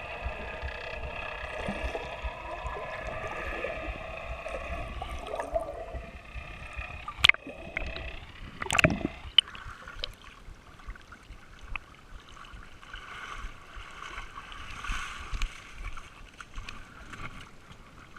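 An engine running steadily that fades out partway through, followed by two sharp knocks about a second and a half apart, then a fainter, uneven hum.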